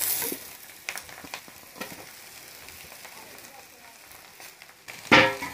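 Spiced potato samosa filling frying in a kadhai: a faint steady sizzle, with a steel spatula scraping the pan at the start and clicking against it a few times as the potato is broken and stirred in. A man's voice starts just before the end.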